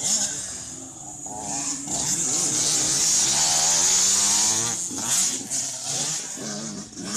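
Several small two-stroke motocross bikes of the 65 cc and 85 cc youth classes revving up and down, their engines overlapping and growing louder about two seconds in as they come closer.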